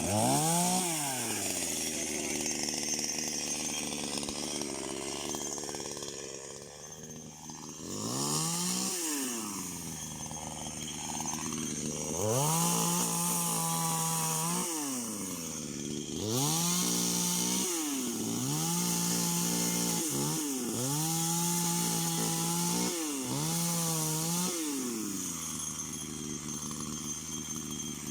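Two-stroke chainsaw being revved: two short revs early on, then five longer stretches held at full throttle, each one to two seconds, with the engine dropping back toward idle between them.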